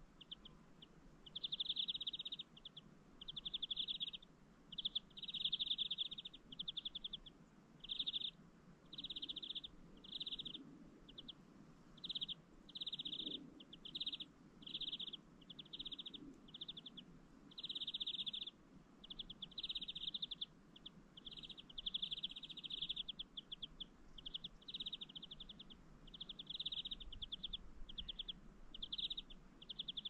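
A bird calling over and over: short, rapid high-pitched trills at a steady pitch, repeated about once or twice a second.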